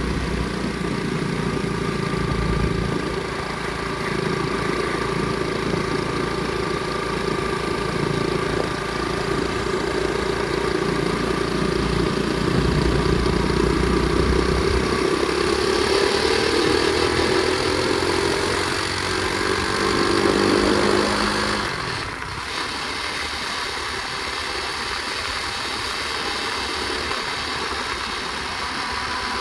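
Flywing pit bike's small single-cylinder engine running under way. It revs up steadily for several seconds, then drops off suddenly about two thirds of the way in and settles lower. A loose cover on the bike rattles along with it, which the rider blames for the noise.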